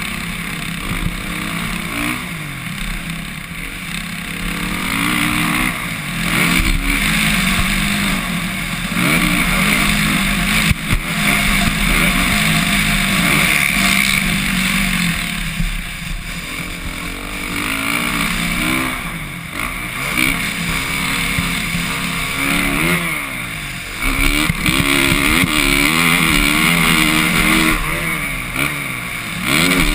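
Suzuki RM-Z450 four-stroke single-cylinder motocross engine under hard riding, its revs repeatedly climbing and dropping as the throttle is worked.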